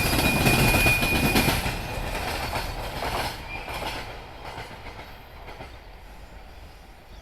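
Freight train of oil tank wagons rolling past, its wheels clattering over rail joints and points, with a thin high wheel squeal for the first second and a half. The noise then fades steadily as the train moves away.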